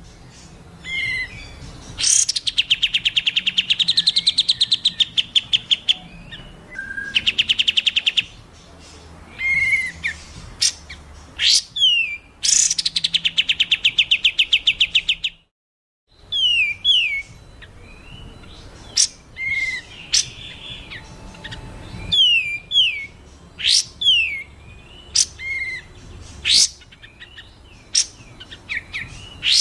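Recorded songbird calls of the kind used as masteran, for teaching caged songbirds. Fast buzzy trills alternate with sharp rising whistles. After a brief break about halfway, the calls become repeated short falling notes and quick upward sweeps.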